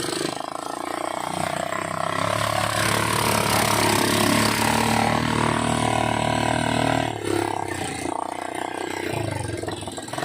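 ATV engine running under way, getting louder about two seconds in and easing off around seven seconds.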